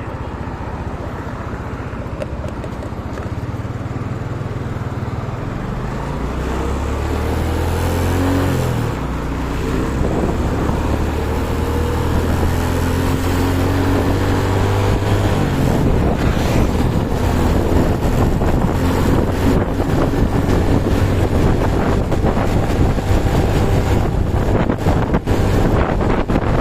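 Motorcycle engine accelerating, its pitch climbing and dropping back at gear changes twice, over wind rushing on the microphone that grows louder as speed builds.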